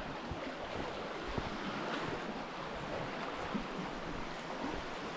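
Lake Superior waves washing against a rocky shoreline: a steady rushing wash, with some wind on the microphone.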